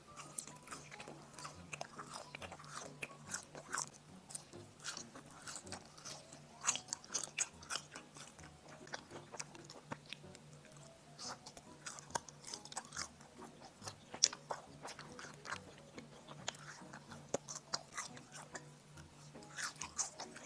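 Close-miked eating of latiao, spicy Chinese gluten snack strips: irregular biting and chewing with many short mouth clicks and smacks, over a faint steady low hum.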